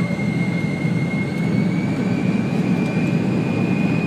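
Cabin noise from the Fokker 70's rear-mounted Rolls-Royce Tay turbofans: a steady low rumble with a thin high whine that slowly rises in pitch.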